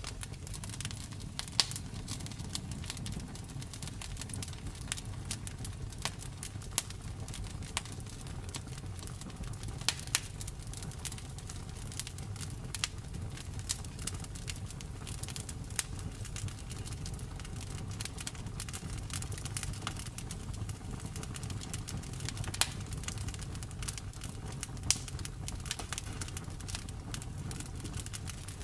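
Wood fire crackling: a steady low rumble of burning with irregular sharp pops and snaps, a few of them louder.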